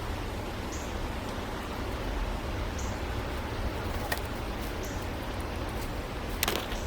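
Steady outdoor rushing background noise, with a short faint high chirp repeating about every two seconds and a few sharp clicks, one about four seconds in and more near the end.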